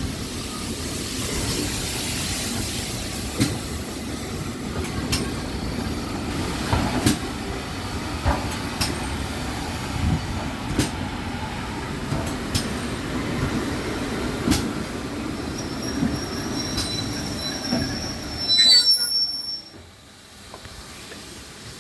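Steam-hauled heritage train running on the rails, a steady rumble with a wheel click over a rail joint about every two seconds. Near the end a loud high squeal of wheels and brakes rises briefly as the train comes to a stop, and the running noise falls away.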